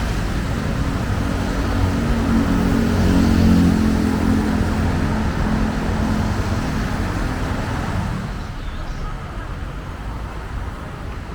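Steady city road traffic. One heavy vehicle's engine swells and passes about two to five seconds in, and the traffic noise eases off after about eight seconds.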